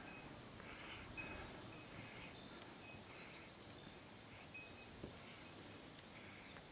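Quiet mountain-forest ambience: wild birds giving scattered short, thin, high chirps and a few quick sliding calls, over soft intermittent rustling.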